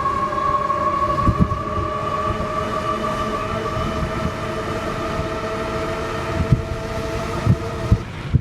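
Electric whine of the Tonnerrey T8's dual 3000W hub motors under throttle, rising slowly in pitch as the bike gathers speed, then dropping away near the end as the throttle is let off. A few low thumps from wind or bumps sound on the microphone.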